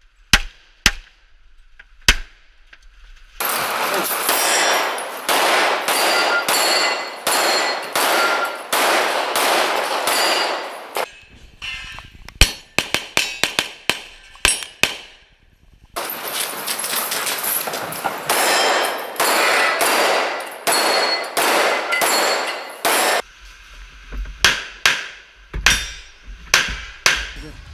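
Pistol gunfire in quick strings, with steel targets clanging and ringing as they are hit. There are single shots at first, two long stretches of rapid shots and ringing steel, and then more separate shots near the end.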